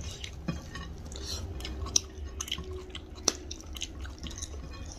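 Close-up eating sounds: wet chewing and lip smacks of rice and chicken curry eaten by hand, with a few sharp clicks and the soft squish of fingers mixing rice on a plate.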